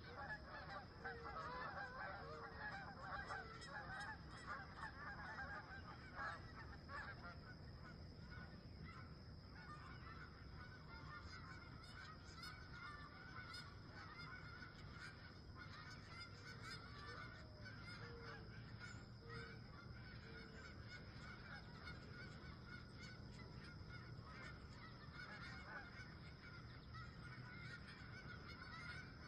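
A flock of wild geese honking, many overlapping calls at first, then fewer and more scattered after about seven seconds.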